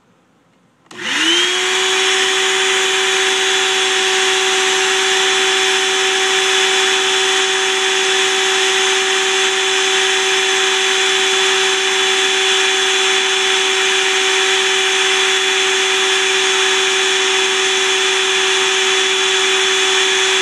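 Electric motor switched on about a second in, spinning up quickly to a steady pitch and then running evenly with a loud hiss.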